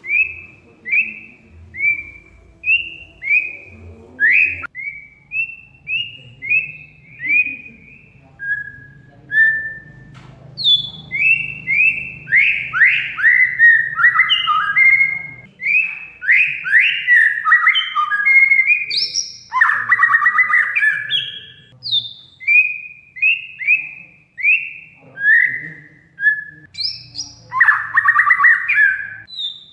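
Oriental magpie-robin (kacer) in full song: a quick run of short, clear whistled phrases, one or two a second, rising and falling in pitch. Harsh chattering bursts break in at the start, about two-thirds of the way through and near the end.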